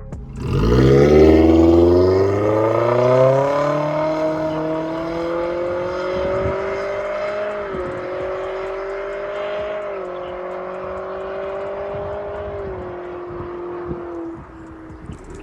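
Exhaust note of a Toyota Corolla Cross 1.8 fitted with an MS-R valved cat-back muffler, accelerating hard. The pitch climbs quickly over the first few seconds, then holds high with three small dips later on, and fades near the end.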